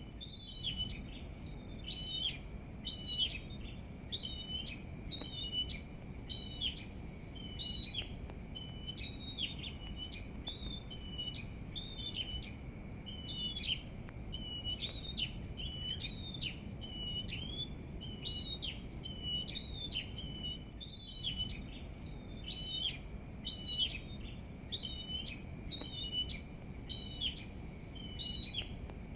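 A small songbird singing a long, steady run of short, high chirps repeated over and over with hardly a break, over a low steady background rumble.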